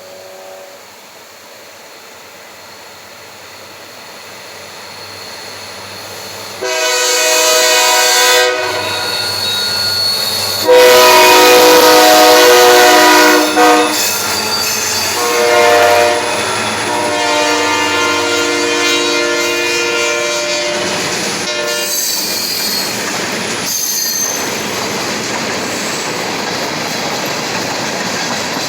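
A Maryland Midland diesel freight locomotive approaching with a building rumble, then sounding its horn in the grade-crossing pattern: two long blasts, one short, one long. The freight cars then roll past with a steady rumble and wheel clatter.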